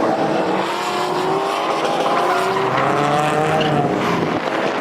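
Drift cars with KA24 four-cylinder engines at high revs in a tandem drift, the engine pitch rising and falling, over the hiss and squeal of sliding tyres.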